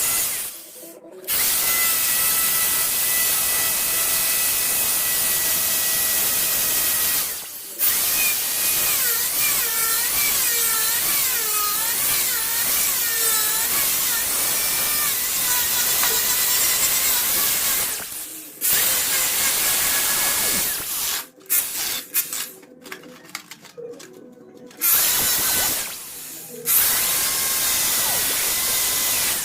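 An electric power tool, drill-like, running in long stretches with a few held tones. It stops briefly several times and starts and stops in short bursts near the end, and its pitch wavers for a while in the middle as if under changing load.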